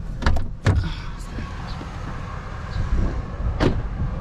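Steady low hum of an idling vehicle engine, with several sharp knocks and clunks over it, the loudest near the end.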